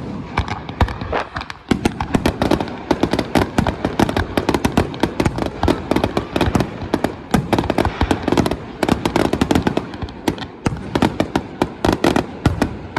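Fireworks exploding in a rapid, dense barrage of sharp bangs and crackles, many per second, with a short lull early on.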